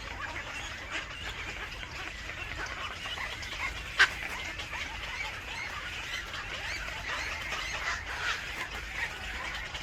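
Birds calling and chirping busily in short, overlapping notes, with one sharp, loud sound about four seconds in.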